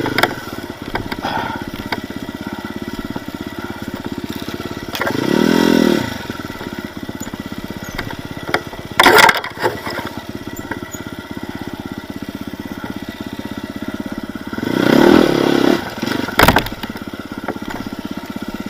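Enduro dirt bike engine running at low revs, revved up and back down twice, about five seconds in and again near fifteen seconds. Sharp cracks come about nine seconds in and again near the end of the second rev.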